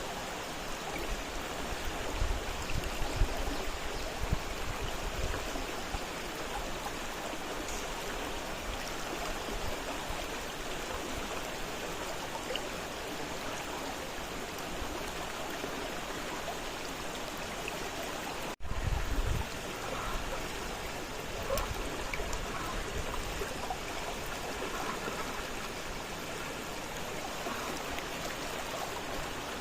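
Fast-flowing river rushing steadily, with a couple of low rumbles below the water sound and a split-second dropout about two-thirds of the way through.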